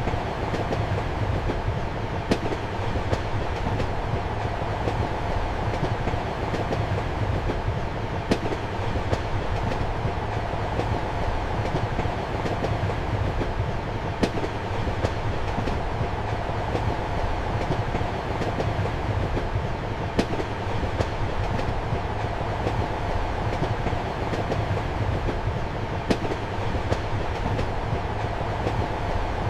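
Steady rumble and hum of a moving train heard from inside a compartment, with a sharp click of the wheels over a rail joint about every six seconds.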